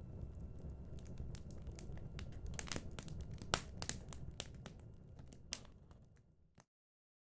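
Small wood fire burning in a BioLite camp stove, crackling and popping with irregular sharp snaps over a low rumble. It fades and cuts off abruptly near the end.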